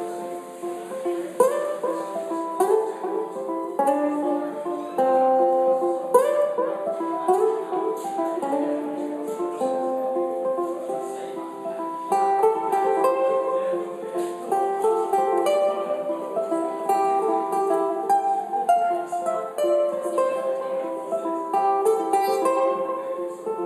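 Ukulele played through a loop pedal: a picked melody over repeating strummed chords, with several overlapping looped layers.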